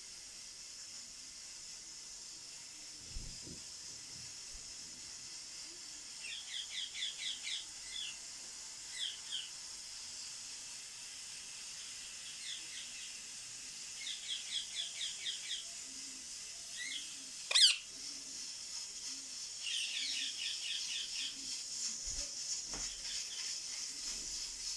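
Young blue parrot chirping in short rapid runs of chirps, several times over, with one loud sharp sound about seventeen seconds in. A steady high hiss runs underneath.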